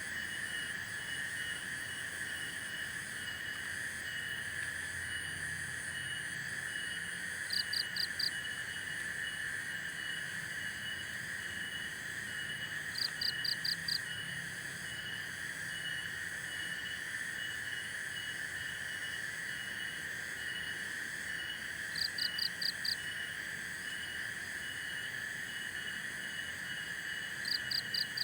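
Night chorus of insects and frogs: a steady high drone with a regular chirp repeating more than once a second. Every five or six seconds a quick group of four high pulses stands out.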